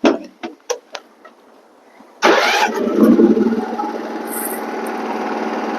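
A few sharp knocks, then about two seconds in the mini excavator's gasoline engine starts with a sudden loud burst and settles into running steadily.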